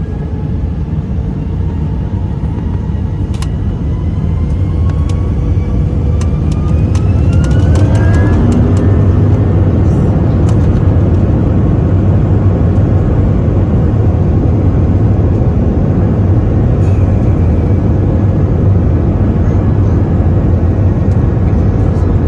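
Airbus A321 twin-engine jet heard from the cabin during takeoff: the engines spool up with whines that rise in pitch and a growing rumble over the first several seconds. A steady loud roar of takeoff power follows, with scattered rattles and knocks from the cabin.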